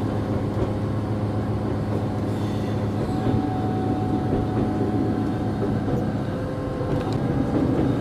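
Regional passenger train running along the track, heard from inside the passenger car: a steady low drone under continuous wheel-and-rail rumble, with a faint whine that comes and goes midway.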